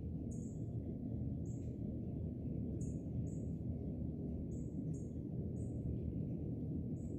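A small bird's thin, very high call notes, short and slightly falling, repeated about eight times with some in quick pairs, over a steady low rumble of background noise.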